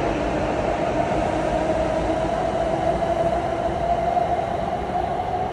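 W7 series Shinkansen train pulling out and gathering speed: steady running noise with a whine that slowly rises in pitch.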